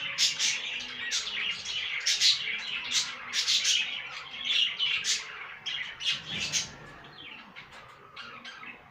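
Budgerigars chirping and squawking in quick, overlapping calls, thinning out and growing fainter in the last couple of seconds.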